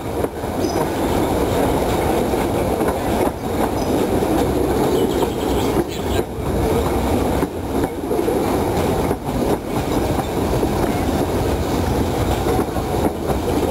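Narrow-gauge passenger train running along the track, heard from a carriage window: a steady rumble of wheels on rails with a few brief dips in level.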